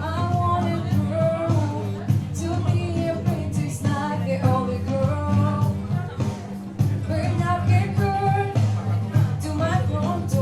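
Group of young singers performing a country song live, with instrumental accompaniment and a steady beat.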